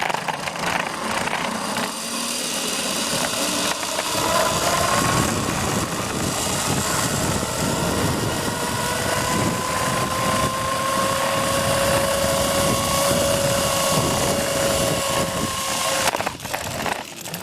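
Zipline trolley pulleys running along the steel cable: a whine that rises slowly in pitch as the ride picks up speed, over a rushing hiss, cutting off suddenly near the end.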